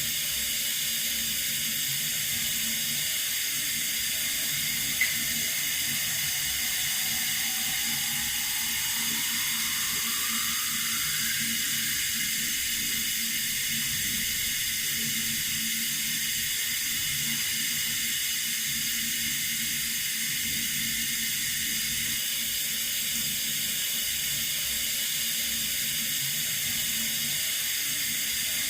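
Water running steadily from a tap, a continuous hiss, with one brief click about five seconds in.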